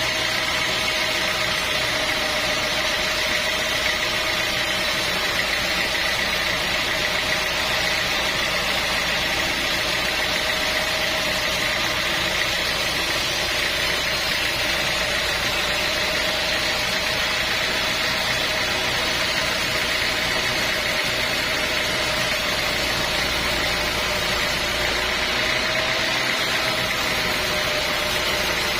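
Sawmill machinery running steadily: an engine-driven drone with a steady whine, holding the same pitch and level throughout.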